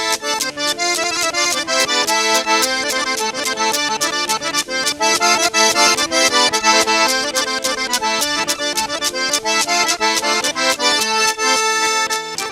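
Fast traditional dance music led by accordion, with a quick, even beat of sharp percussive strikes.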